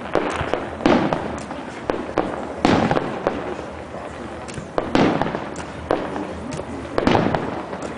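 Fireworks display: aerial shells bursting one after another, a sharp bang roughly every second or two, each trailing off in a crackling rumble.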